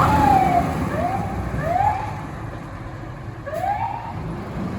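Fire engine's siren sounding in short rising-and-falling whoops, four in all, over the low rumble of the truck, fading as it pulls away on an emergency call.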